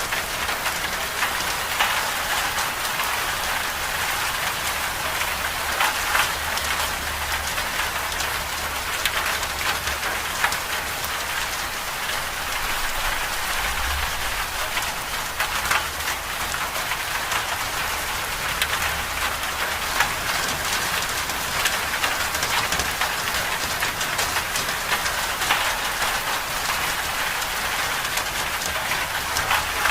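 Steady winter-storm ambience: a dense hiss of falling precipitation peppered with small ticks, over a low rumble.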